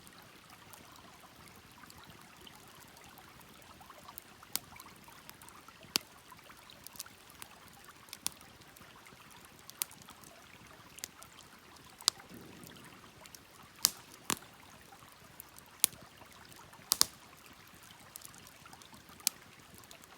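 Wood fire burning: a steady soft hiss with irregular sharp crackling pops, about a dozen loud ones.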